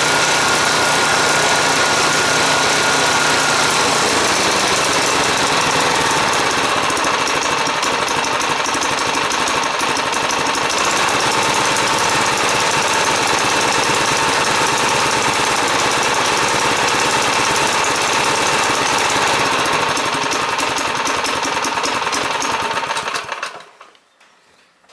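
Small four-stroke brush cutter engine running steadily, then shut off near the end, dying away within about a second.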